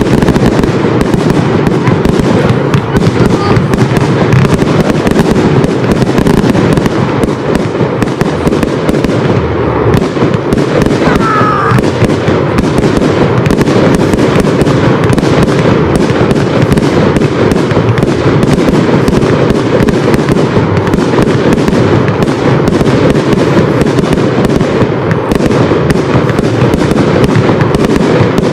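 Fireworks display: aerial shells bursting in a dense, continuous barrage, many sharp bangs close together with no pause, the loudness holding steady throughout.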